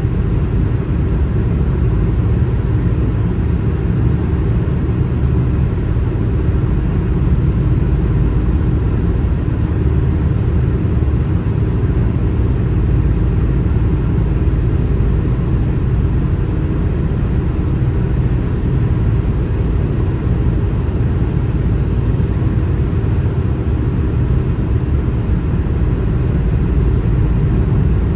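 Car travelling at highway speed, a steady low rumble of road and tyre noise with no passing swells, as heard from inside the cabin.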